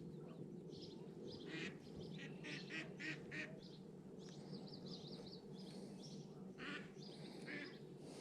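Birds calling on and off: short chirps and quacking calls with a brief warbling trill about halfway through, over a steady low background hum.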